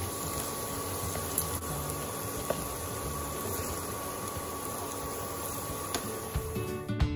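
Okra and diced potato sizzling steadily in hot oil in a wok, with a few faint clicks.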